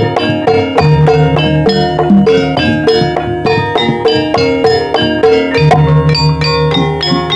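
Javanese gamelan music in Banyumas Ebeg style: struck metallophones and mallet instruments play a fast, even run of notes over lower sustained tones.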